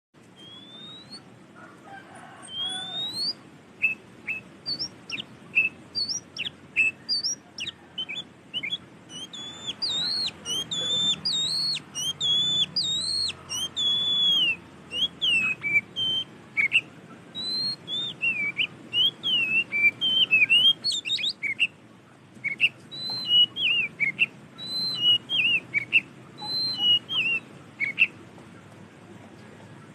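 Oriental magpie-robin (kacer) singing a very loud, rapid string of short whistled notes, upslurs and down-slides, with a brief pause about two-thirds of the way through before the song resumes, stopping shortly before the end.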